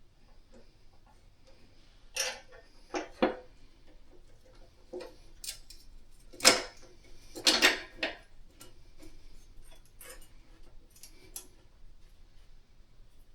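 Small metal mounting hardware being handled and fitted: irregular clinks, taps and short rattles. The louder clanks come about two, three, six and a half, and seven and a half seconds in.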